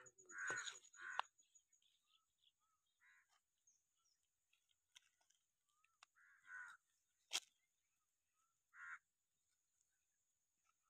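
A bird calling outdoors: short calls, a few close together at first and then one every two or three seconds, with a single sharp click about seven seconds in.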